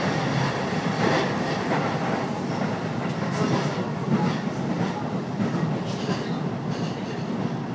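Interior running noise of a JR Keiyo Line electric commuter train moving at speed: a steady rumble of wheels on rail, with faint clicks now and then.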